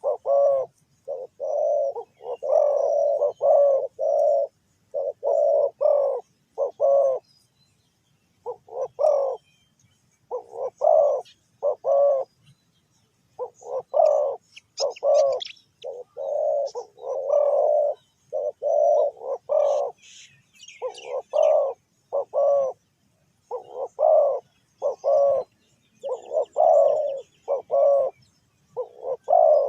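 Spotted doves cooing in repeated short phrases, one after another with brief pauses, against faint high chirps of small birds.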